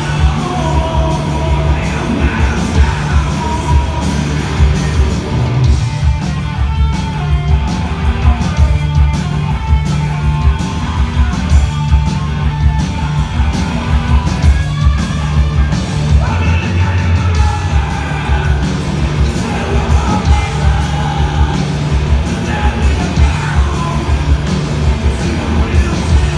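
Live rock band playing a loud, driving song on electric guitars, bass and drums, with a singer yelling the vocal line during the first few seconds and again in the second half.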